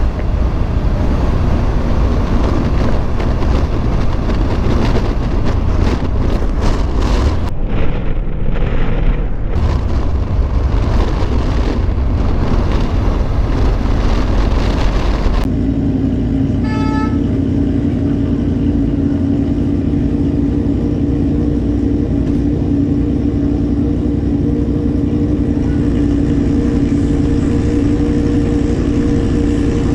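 Road vehicle noise: a heavy rumble with wind-like noise, which cuts off suddenly about halfway through. A steady, even drone follows, with a short run of beeps shortly after the cut.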